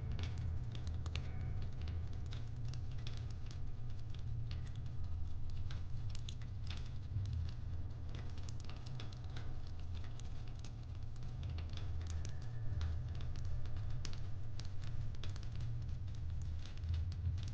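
Fireplace crackling: irregular small pops and snaps over a low steady rumble.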